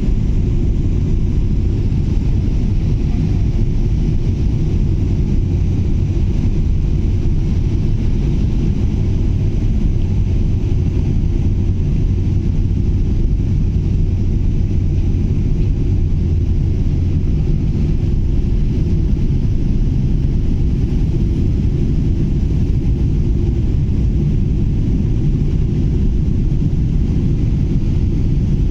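Jet airliner on landing approach: a steady, loud low rumble of engines and rushing air, unchanging throughout.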